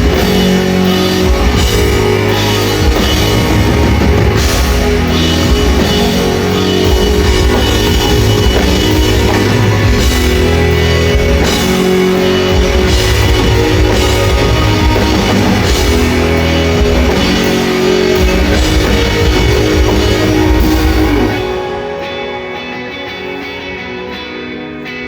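Live rock band playing loud, with electric guitar and drum kit. About 21 seconds in, the drums and bass drop out and the music falls quieter, leaving guitar.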